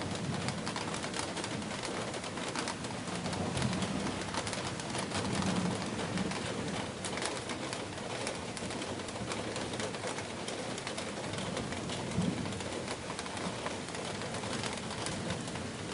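Heavy rain pouring steadily, with a pigeon cooing now and then.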